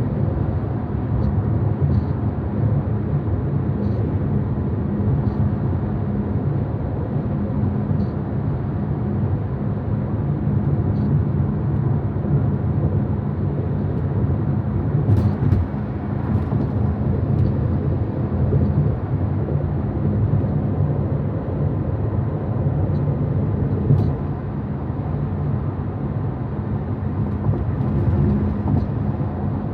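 Steady low road and tyre rumble of a 2023 Tesla Model Y Performance driving at speed, heard from inside the cabin, with no engine note from the electric drive. A few faint ticks sound over it.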